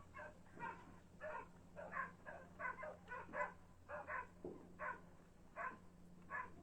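A dog whining in short, repeated yelps, about two a second.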